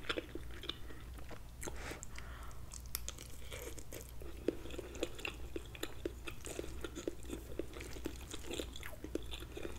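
Close-miked chewing of cooked cabbage and turkey sausage: a steady run of small, irregular mouth clicks and smacks.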